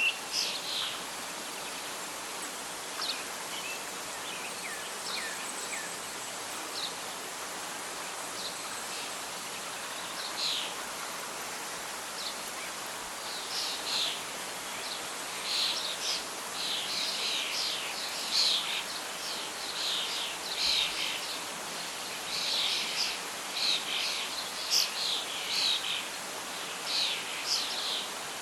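Birdsong over a steady background hiss of wind and leaves. Scattered short chirps in the first half become a busy run of calls from about halfway through.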